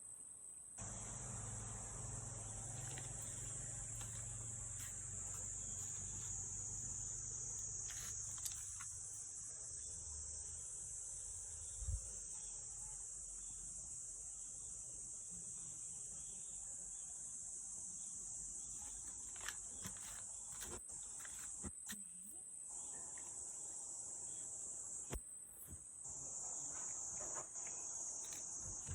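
Crickets chirping in a steady, high-pitched chorus, with a few faint taps now and then.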